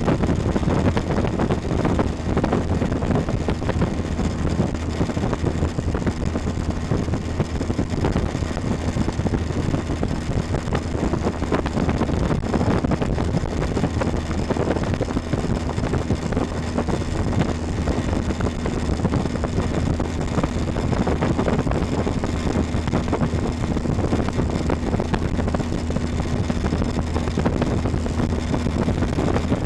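Motorboat engine running at a steady speed while the boat is underway, a constant low hum over rushing wind and water noise, with wind buffeting the microphone.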